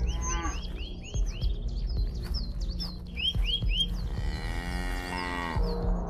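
Birds chirping throughout, with a farm animal's long call, like a cow's moo, starting about four seconds in and lasting about a second and a half.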